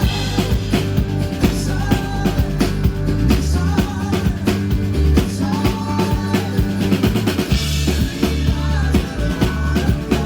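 Live band music over a PA, with a drum kit keeping a steady rock beat under bass and other instruments.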